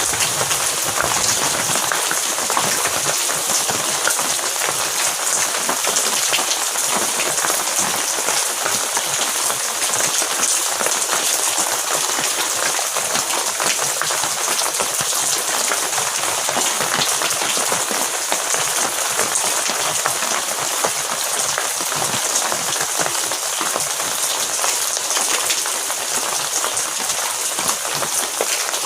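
Heavy rain falling steadily: a dense, even hiss made of countless small drop impacts.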